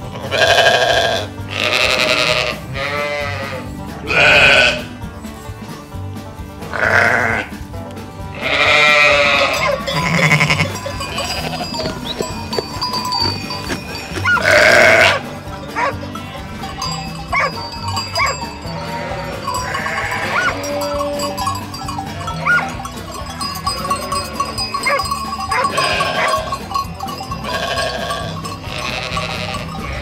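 A large flock of sheep bleating, with many overlapping bleats that are loudest and most frequent through the first half, then thinner and quieter, and with faint steady ringing in the second half.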